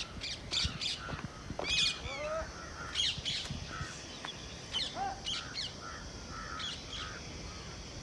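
Several birds calling: quick, high chirps and short calls, with a few whistled calls that slide in pitch.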